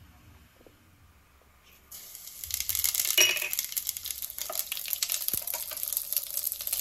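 Quiet at first, then about two seconds in, grated onion goes into hot oil in a pan and sizzles loudly with a dense crackle that keeps going.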